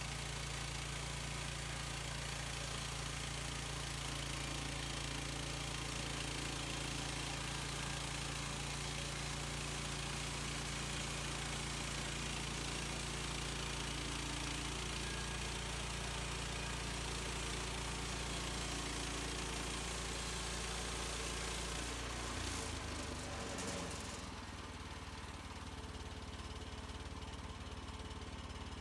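An engine running steadily at an even speed. About 22 seconds in, its pitch wavers and shifts, then it settles into a slightly quieter steady run.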